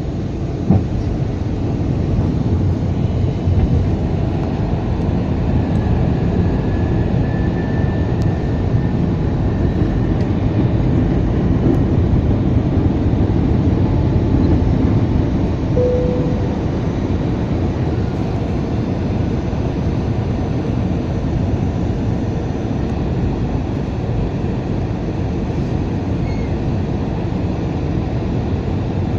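Steady low rumble of airflow and engines inside an Airbus A320 cabin on approach, with the landing gear down. There is a single short knock about a second in.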